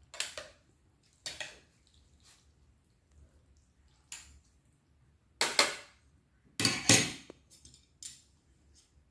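Eating utensils clinking and scraping against a soup bowl in about six short, separate clatters, the loudest two a little past the middle.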